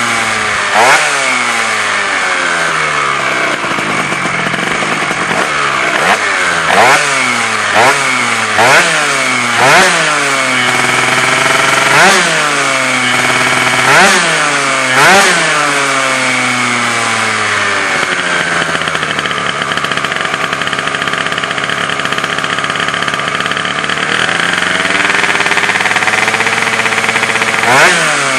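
Gilera Runner scooter's two-stroke engine breathing through a Malossi MHR racing exhaust, revved in sharp blips: the pitch shoots up and falls back about ten times, then settles to a steadier lower speed before another rev near the end.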